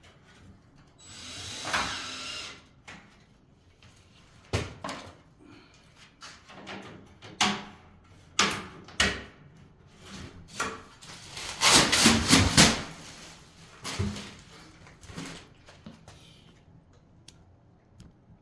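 Work noise from handling hard materials and tools: scattered knocks and clatters, with a scraping burst about a second in and a longer, louder burst of scraping and knocking about twelve seconds in.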